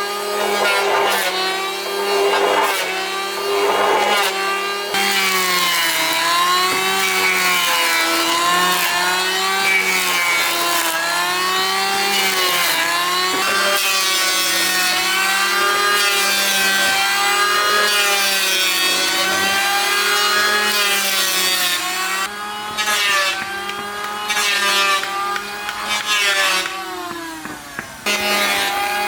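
Chainsaw cutting wood, its engine note wavering up and down as the chain bogs and frees in the cut. The engine eases off in short gaps near the end.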